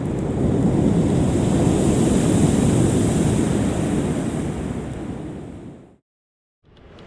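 Ocean surf washing on the beach, with wind on the microphone. The wash swells over the first few seconds, then fades away to silence about six seconds in.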